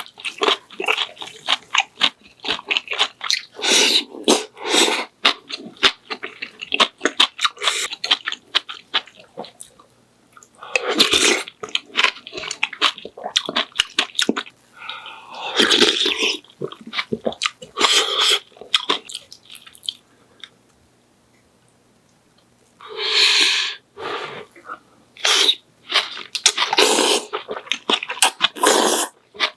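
A person eating close to the microphone: dense wet chewing, lip smacks and mouth clicks, with a few longer breathy sounds such as slurping or blowing on hot food, and a short pause about two-thirds through.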